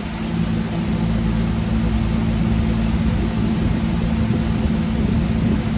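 Heavy rain falling in a loud, steady rush, with a steady low hum underneath.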